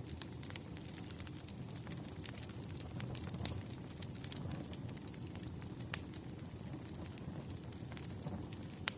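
Wood fire crackling: irregular sharp pops and snaps over a low, steady rush from the burning logs, with a louder pop about six seconds in and another near the end.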